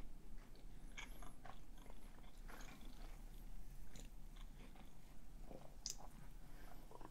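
A man chewing a mouthful of food, with small wet mouth clicks. Near the end he drinks from a soda can, a short sharp sound at the can.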